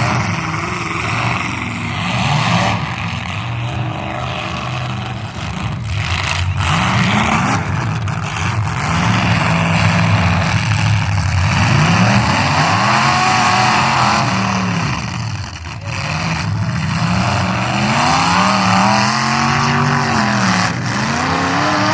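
Full-size demolition derby cars' engines revving hard, their pitch repeatedly climbing and falling, with scattered thuds of cars colliding.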